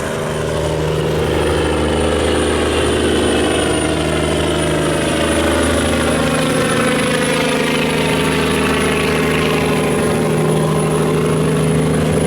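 Large river barge's diesel engine running hard as it passes close by: a loud, steady engine drone with slowly drifting higher whines, growing a little louder in the first second or two.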